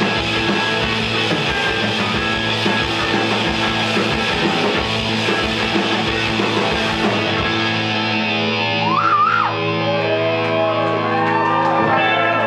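Rock band playing live in a hall, with electric guitar and drum kit. The drums stop a little over halfway through, leaving held guitar chords ringing under sliding, wavering high notes as the song winds down.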